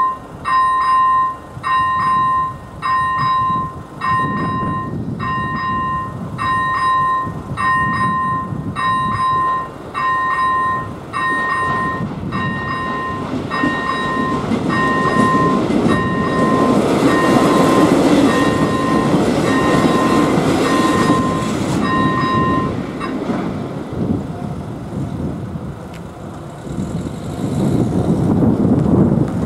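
AŽD 97 level-crossing warning lights' first-generation electronic bell chiming about once a second while a passenger train rolls over the crossing. The train is loudest in the middle. The bell stops about three quarters of the way through, and a road vehicle is heard near the end.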